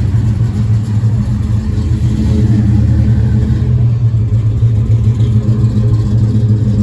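A vehicle engine running steadily close by, a loud low drone that holds its pitch.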